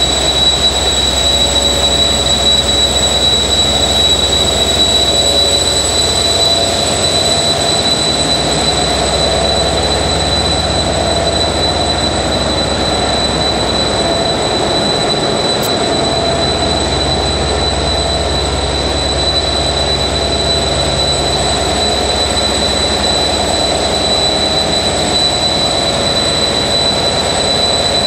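SNCF CC 72000-class diesel locomotive's V16 AGO engine idling steadily at about 850 rpm while supplying train heating, with the steady high whistle of its two turbochargers.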